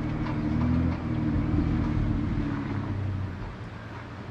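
Motor vehicle engine running steadily, getting quieter about three seconds in.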